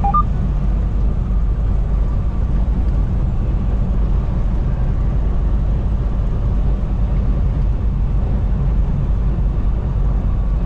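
Semi-truck driving at highway speed, a steady low rumble of engine and road noise heard inside the cab. Two short faint tones sound right at the start.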